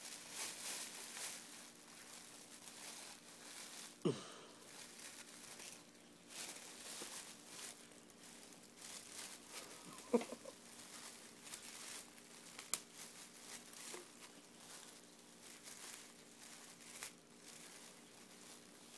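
A cat rummaging in a bag, the bag rustling and crinkling in many small scratchy bursts, with two brief squeaks about four and ten seconds in.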